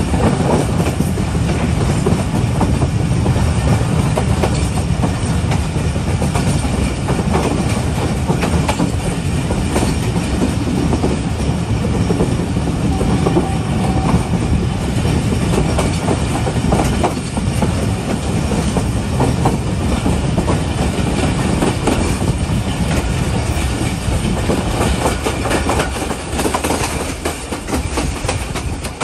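Passenger train running along the line, heard from on board: a steady rumble with the clickety-clack of wheels over the rail joints.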